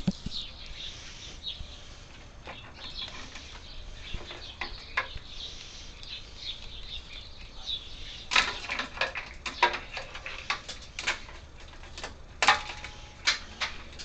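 Light handling noise: soft rustling, with a run of small sharp clicks and taps that gets busier after about eight seconds.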